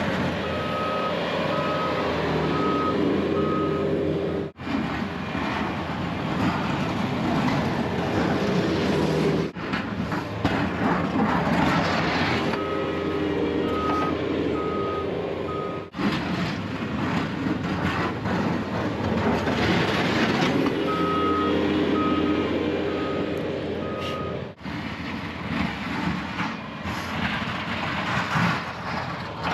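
Snow-plow vehicle's backup alarm beeping in three short runs of about four beeps each, over its steadily running engine.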